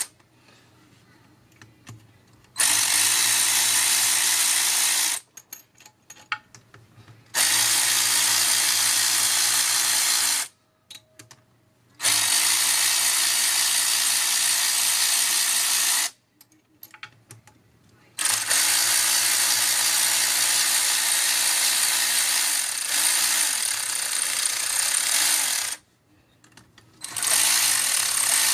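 Cordless electric ratchet's motor whirring in five runs of a few seconds each, with short pauses between, as it spins fasteners off an engine during teardown.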